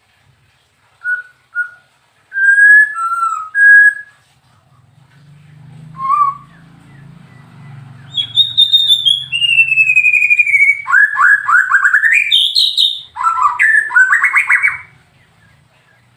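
White-rumped shama (murai batu) singing: a few short clear whistled notes, then louder phrases with a long falling whistle, a run of fast rising sweeps and sharp chattering notes, stopping about a second before the end.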